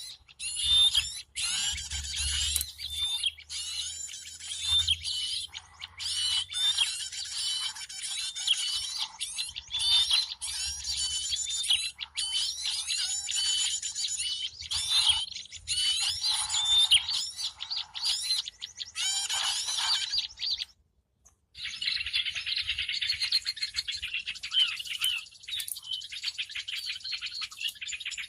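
Dense, noisy chorus of many small birds chirping and chattering at once, played as a bird-lure call meant to draw in birds. It breaks off briefly about 21 seconds in, then starts again.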